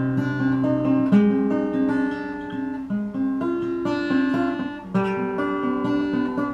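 Acoustic guitar strummed chords in an instrumental passage between sung verses, with the chord changing about every one to two seconds.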